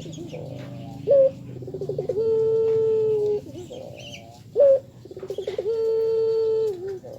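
Barbary dove (puter) cooing: twice, a short higher note followed by a quick stuttering start that settles into a long, steady coo, each call dipping at its end.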